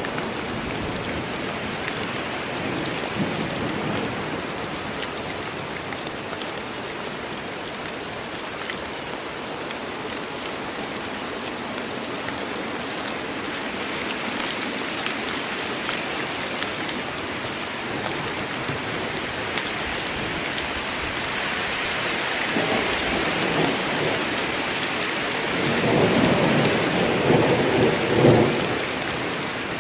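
Rain falling steadily in a forest, with a low rumble of thunder rolling in over the last third and loudest near the end.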